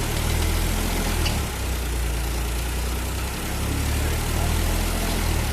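Tractor diesel engine running steadily, with a constant low hum.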